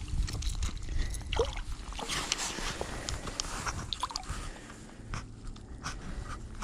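Wind buffeting the microphone as a steady low rumble, with scattered small clicks, scrapes and crackles of close handling noise.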